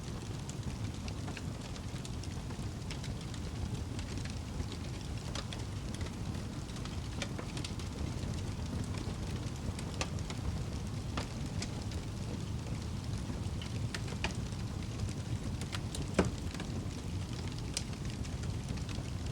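Wood fire burning in a fireplace: a steady low rumble of flames with frequent sharp crackles and pops, one louder pop about 16 seconds in.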